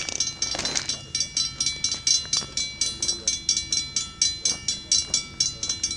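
Railroad crossing bell ringing rapidly, about five strokes a second, each stroke ringing on into the next.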